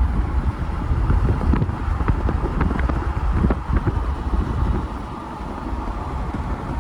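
A vehicle driving, with a steady low road rumble and wind buffeting the microphone, with a few light clicks and knocks in the first few seconds.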